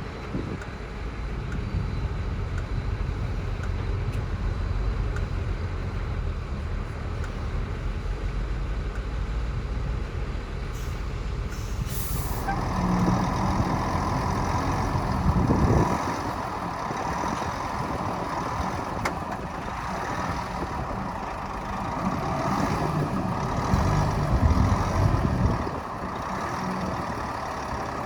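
Heavy diesel earthmoving machinery running. A low engine rumble gives way to a brief hiss about twelve seconds in, then a steadier, higher-pitched machine noise with two louder swells.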